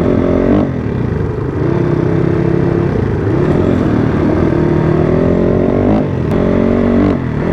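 Dirt bike engine running while riding, its note rising and then dropping back several times.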